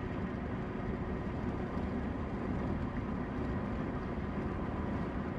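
A vehicle engine running steadily: an even hum with a few faint steady tones and no distinct events.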